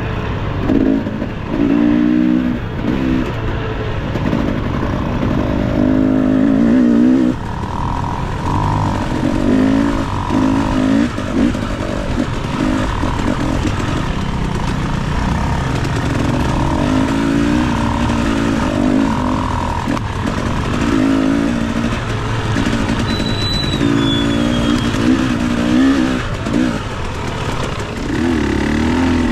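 Dirt bike engine on a hard enduro trail, revved in short bursts again and again and easing off between them, over constant rough mechanical noise.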